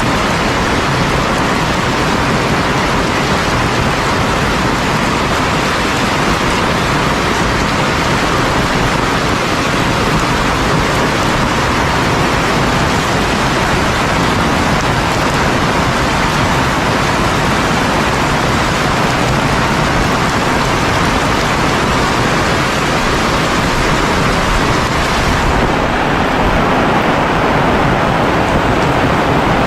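Heavy rain falling steadily, a dense unbroken hiss. Near the end the highest part of the hiss thins a little.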